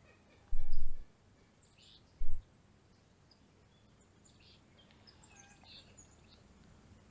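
Scattered faint bird chirps over a low outdoor hiss, broken twice by a short low rumble on the microphone, about half a second in and again about two seconds in.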